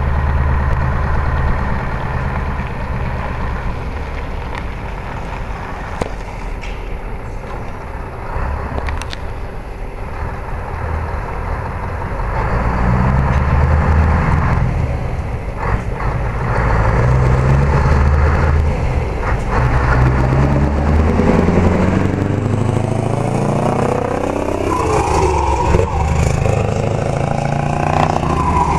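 Scania 164 580 bhp V8 truck engine running through a vertical single-pipe exhaust. It gets louder about twelve seconds in, and near the end its pitch falls and rises again as the revs change.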